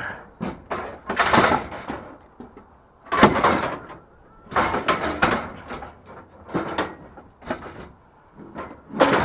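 Scrap and junk being shifted and dragged about by hand: a string of scraping, rattling bursts a second or two apart.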